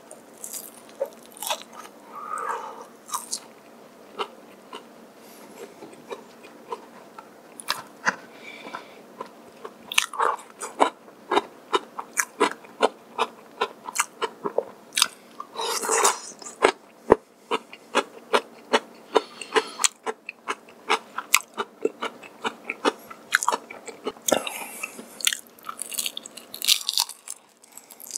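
Close-miked chewing of crispy honey-glazed fried chicken and potato wedges. It is quieter chewing for the first several seconds, then dense, sharp crunches come thick and fast from about ten seconds in.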